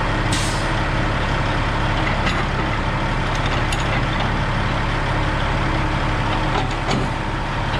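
An engine idling steadily close by, with a few light clicks over it.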